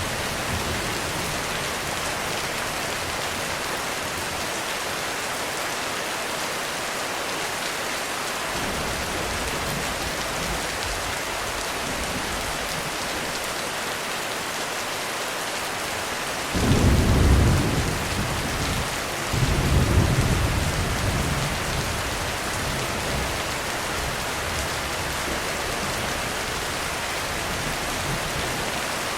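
Heavy rain falling steadily on a roof. A little past halfway a clap of thunder breaks in suddenly and rumbles, a second peal follows about three seconds later, then the rain goes on alone.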